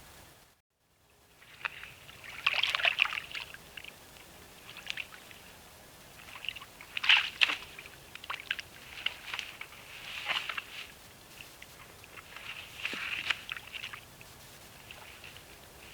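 North American beaver handling branches at its dam in shallow water: irregular bursts of sloshing and splashing, the loudest about seven seconds in.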